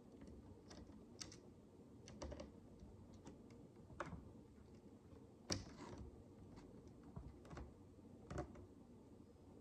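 Tiny plastic micro bricks clicking and tapping as they are handled and pressed together: faint, irregular light clicks, the sharpest about five and a half seconds in.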